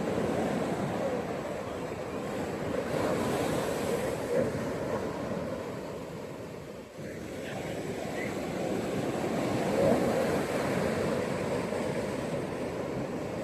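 Ocean surf washing onto a beach, a steady rush of waves that dips briefly about seven seconds in and swells again to a crest near ten seconds.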